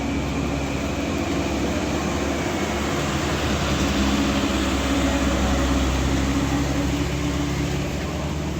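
Heavy diesel truck engine running hard under load on a steep uphill climb, a steady low drone over broad road and mechanical noise that swells a little midway.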